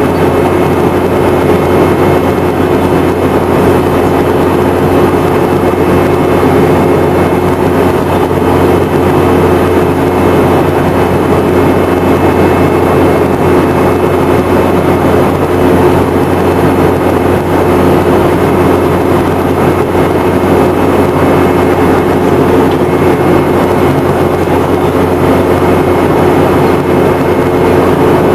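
Steady airliner cabin drone in a Boeing 717-200: the hum of its rear-mounted Rolls-Royce BR715 turbofans over a constant rush of airflow, with a few steady low tones.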